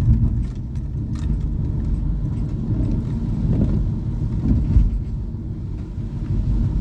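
Road and engine noise of a moving car heard from inside: a steady low rumble, with a few faint clicks.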